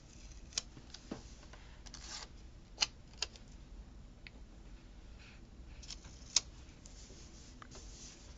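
Paper stickers and planner pages being handled: light rustling with a few short, sharp clicks and taps as stickers are peeled and placed.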